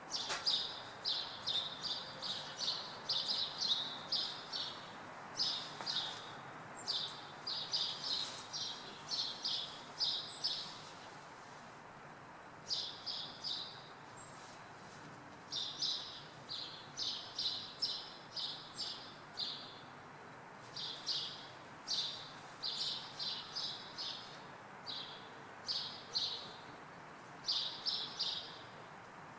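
Small perched birds chirping in quick runs of short, repeated notes with brief pauses between the runs, over a steady background hum of town noise.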